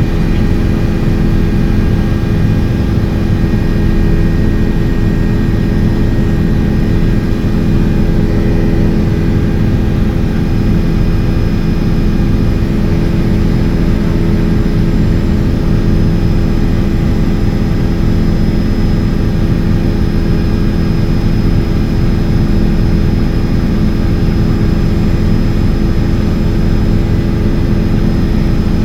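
Helicopter running steadily: a loud, even engine and rotor drone with steady tones, unchanging throughout.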